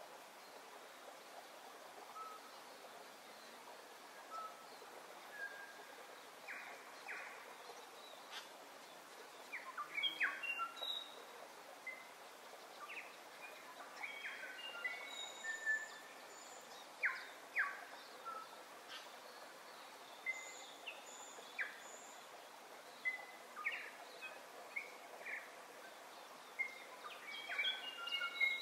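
Birds calling: scattered short whistles and chirps at many different pitches, more frequent from about ten seconds in, over a steady background hiss.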